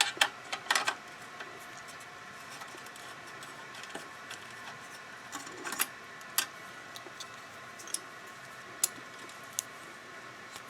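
Scattered light metallic clicks and taps of hand tools working on a bicycle's front derailleur cable, a few at the start and then single ticks every second or two, over a quiet steady background.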